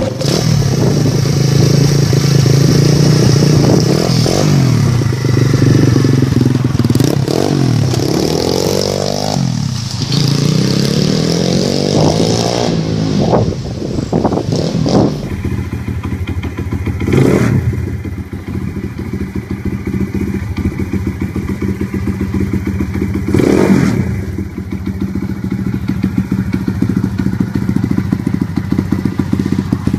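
Small two-stroke dirt bike engine, a Yamaha PW50 'Piwi' mini bike, revving up and down repeatedly, then settling into a steady run with two short revs in the second half.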